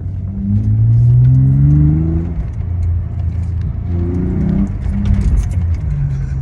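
Acura TL's V6 exhaust, mufflers deleted, pulling under acceleration: the engine note rises for about two seconds, drops at a gear change, then climbs again briefly before settling back into a steady low drone.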